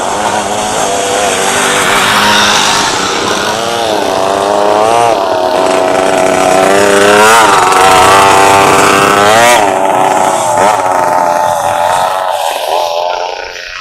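Motocross motorcycle engines revving, the pitch rising and falling repeatedly as the throttle is worked, dropping away near the end.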